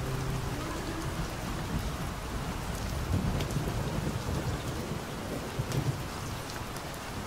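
Steady rain falling on a hard surface, with scattered sharp drop ticks and low rumbles of thunder about three and six seconds in. A held musical note dies away in the first half second.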